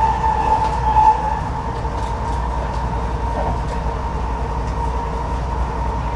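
Electric passenger train running, a steady rumble with a constant whining tone over it and a few faint ticks.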